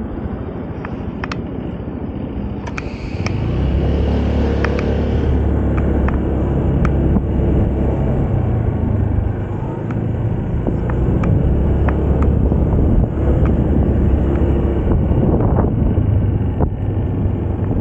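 Moda Moca 110 scooter riding along: steady engine and road rumble, louder from about three and a half seconds in.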